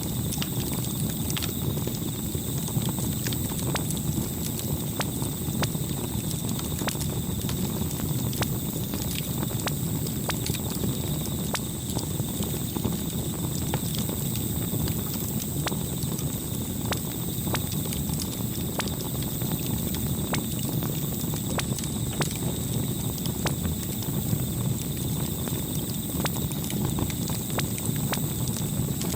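Campfire crackling: irregular snaps and pops of burning wood over a steady low rumble of the flames.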